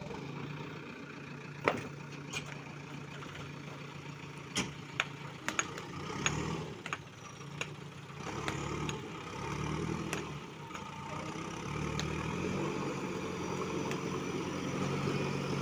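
JCB backhoe loader's diesel engine running near idle, its speed rising and falling a few times, with sharp, scattered knocks of stones being dropped into its steel bucket.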